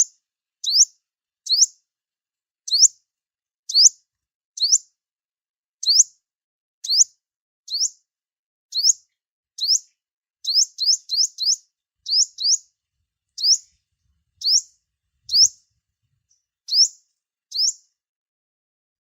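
Sunbird calling: a series of short, high chirps, each rising quickly in pitch, spaced about a second apart, with a quick run of four a little past halfway.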